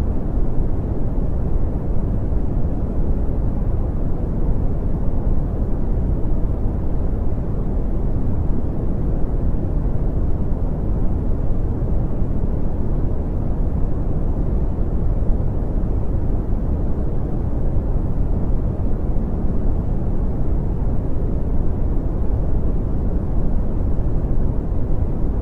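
Brown noise: a steady, deep rumbling hiss with most of its energy in the bass and little above the midrange, unchanging throughout.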